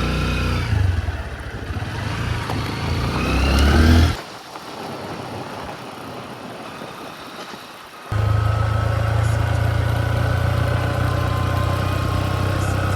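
Honda XR150L's small single-cylinder engine pulling away, its pitch rising for about four seconds. It cuts abruptly to a quieter stretch without the engine's low drone. About eight seconds in, the engine is back, running at a steady pace.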